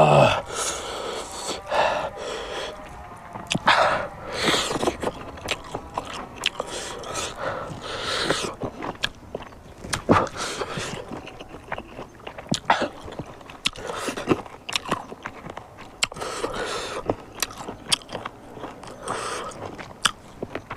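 Close-up chewing and crunching on smoked pork and its dried bones, with many sharp wet mouth clicks throughout and a few louder noisy stretches.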